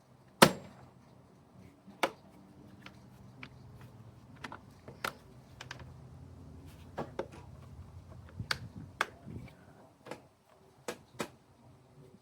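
Scattered sharp clicks and knocks of tools and car parts being handled: one loud knock about half a second in, then about a dozen lighter ones spread unevenly.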